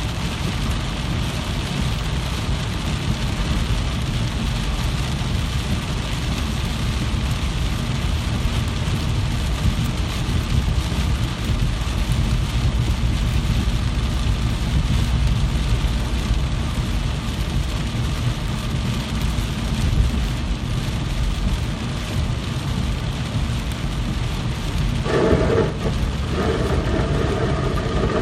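Steady rain with a constant low rumble underneath. Near the end a sound with several steady tones joins in.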